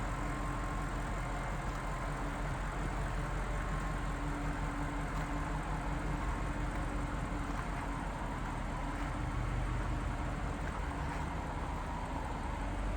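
2016 Audi S6's twin-turbo V8 idling steadily.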